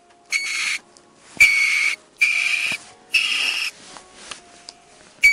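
Ferret giving five short, high, whistling squeaks, the first four about a second apart and the last near the end.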